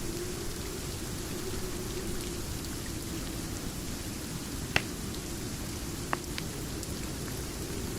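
Steady rain, with a few faint ticks and two sharp pops a little past halfway.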